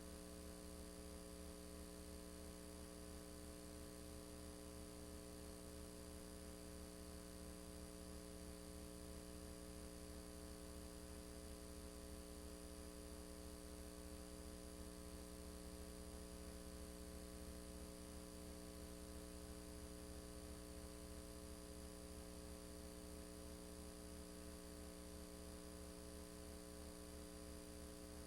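Faint, steady electrical hum with many evenly spaced overtones, unchanging throughout.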